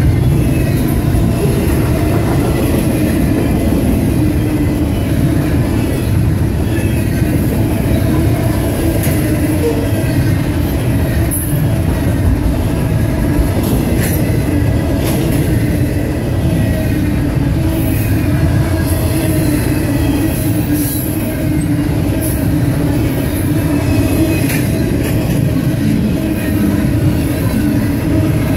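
Double-stack intermodal container train rolling past at close range: a steady rumble of steel wheels on rail, with faint wheel squeal and a few sharp clanks.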